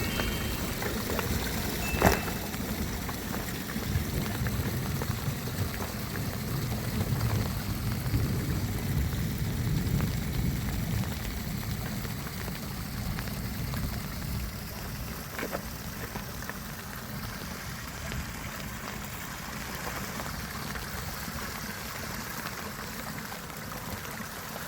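Steady rush of water, heaviest in the low end, with a sharp knock about two seconds in and a fainter one about halfway through.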